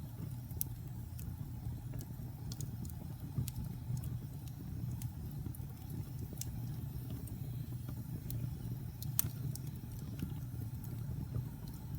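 Wood fire burning in a fireplace: a steady low rumble of the flames with irregular sharp crackles and pops from the logs, one louder pop about nine seconds in.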